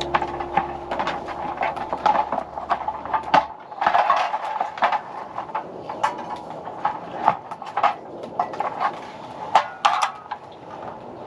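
Irregular light clicks and clinks of small hard objects being handled, like tableware or gear at a campsite. A low held tone fades out a few seconds in.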